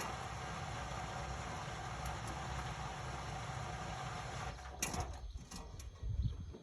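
Indesit Innex BWE 91496X washing machine running with a steady hum, a thin whine and a low rumble. About four and a half seconds in the running noise drops away, followed by a sharp click and a few low thumps near the end.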